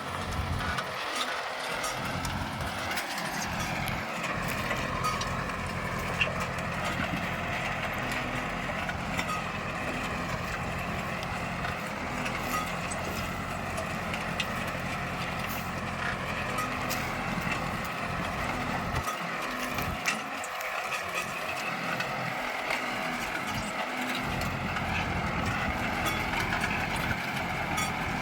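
Kubota tractor's diesel engine running steadily, with a higher whine above it that wavers slightly in pitch.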